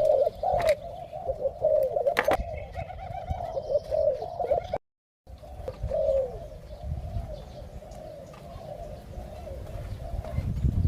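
Spotted doves cooing, a steady run of low, repeated coo phrases with a brief break of silence about halfway through.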